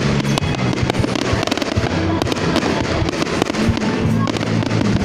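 Fireworks going off in rapid succession, many sharp bangs and crackles close together, with music playing underneath.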